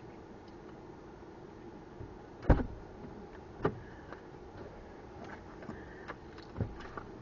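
A loud, sharp thump about two and a half seconds in, followed by two softer knocks about a second later and near the end, over a faint steady background.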